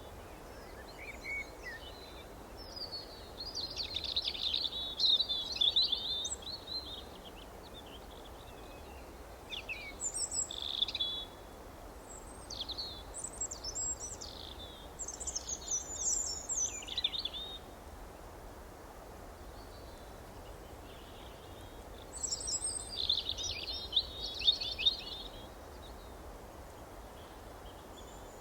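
Small songbirds chirping and twittering in bursts of rapid high notes, with quiet gaps of a few seconds between phrases, over a faint steady background hiss.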